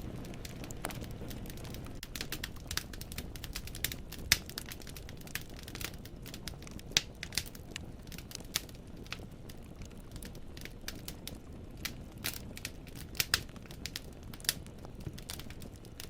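Wood fire in a fireplace crackling: irregular sharp pops and snaps of burning logs over a steady low rumble of the flames, the loudest pop about four seconds in.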